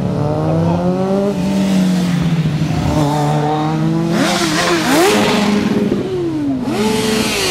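Motorcycle engines revving, their pitch falling, holding, then rising and falling again several times, with a louder hissing rush about four seconds in.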